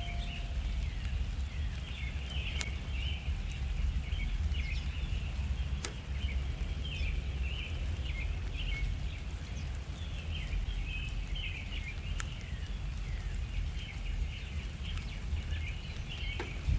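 Small songbirds chirping and twittering, with many short calls overlapping throughout and a steady low background rumble.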